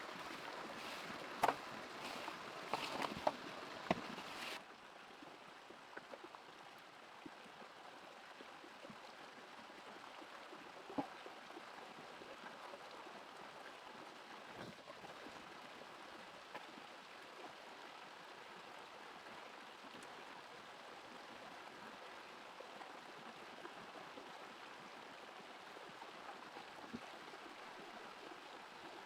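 Steady rush of flowing water. A few sharp knocks come in the first four seconds, then the sound changes abruptly to a quieter, even flow.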